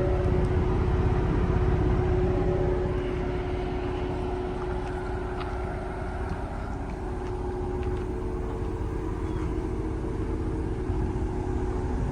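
A vehicle engine running steadily: a low rumble under a constant hum.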